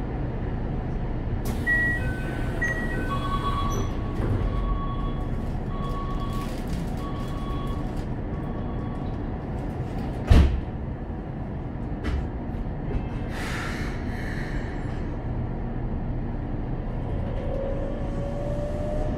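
Interior of a Keikyu 600 series train at a station: electronic tones and a row of short repeated beeps, then the sliding doors shut with one loud thud about ten seconds in. A brief hiss follows. Near the end the Toyo GTO-VVVF inverter starts its rising whine as the train begins to pull away.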